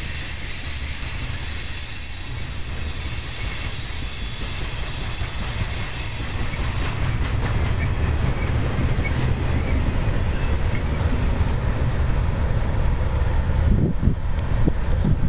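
Freight cars rolling past: steel wheels on rail from a double-stack container train, with a second freight rumbling across the bridge overhead. A thin high wheel squeal sounds in the first half and fades, and a couple of short low thumps come near the end.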